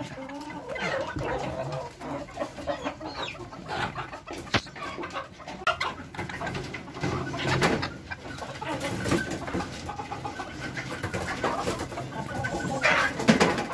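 Birds clucking and cooing, with a few sharp clicks from handling.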